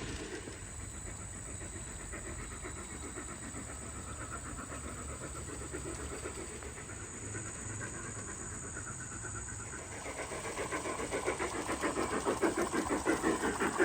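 Garden-scale model steam locomotive chuffing in a rapid, even rhythm over a steady hiss, growing louder near the end.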